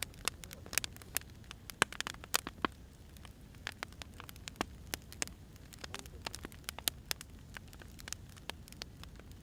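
Firewood burning, with irregular crackles and pops over a low steady rumble.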